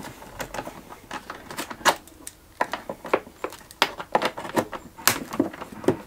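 Irregular clicks, knocks and clatter of hand tools and metal parts as a lawnmower's pull-start housing is unbolted and taken apart.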